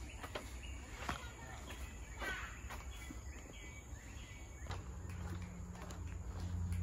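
Outdoor forest ambience with birds chirping now and then and a few light clicks. A low steady hum comes in about two-thirds of the way through and grows louder.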